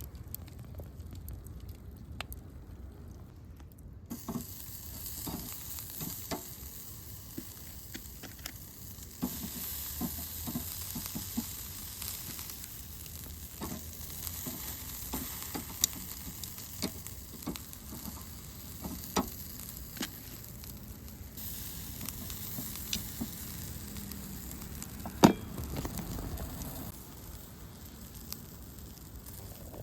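Food sizzling as it fries in a hot pan, the sizzle starting suddenly about four seconds in, with scattered clicks and taps of cooking utensils and one sharp knock near the end.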